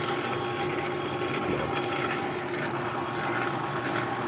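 Clausing 4800 metal lathe running steadily at a low spindle speed, a steady machine hum with a constant whine from its motor and drive.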